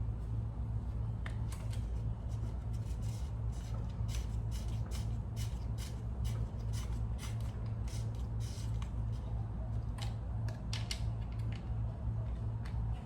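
Irregular light clicks and ticks of small parts and tools being handled during a carburetor swap, over a steady low hum.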